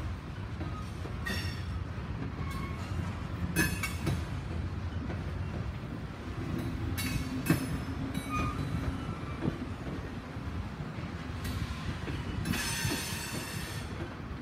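Freight train of covered hopper cars rolling past with a steady low rumble. Wheels squeal against the rail in several brief high, ringing bursts, with a longer squeal near the end.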